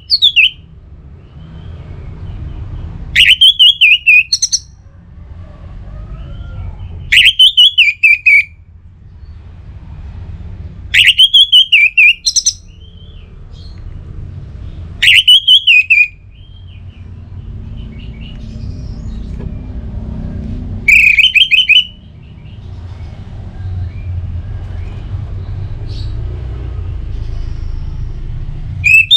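Orange-headed thrush singing: five short, loud song phrases about four seconds apart, each a quick run of notes, with a longer pause before the last phrase. A low rumble fills the gaps between phrases.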